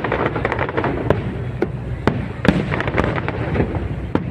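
Aerial fireworks display: a dense run of crackling pops and sharp bangs over a low rumble, with the loudest bangs about halfway through.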